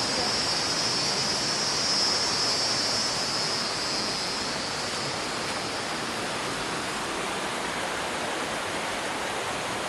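Waterfall rushing: a steady, even roar of falling water. A high, steady buzz sits over it for the first half and fades out about halfway through.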